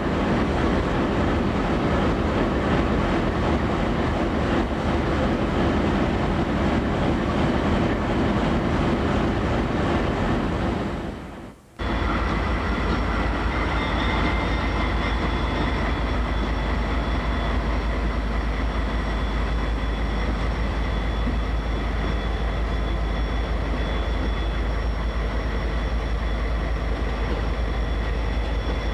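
Freight train rolling past on the rails, a steady mix of rumble and wheel noise. About twelve seconds in the sound drops out briefly and picks up again on a train with a heavy low rumble and a thin, steady high-pitched whine over it.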